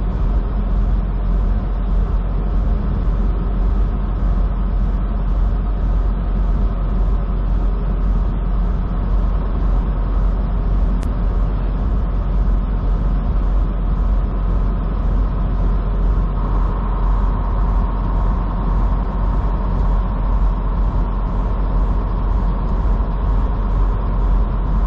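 Semi truck's diesel engine and road noise heard from inside the cab while driving: a steady low drone, with a faint steady whine joining about two-thirds of the way in.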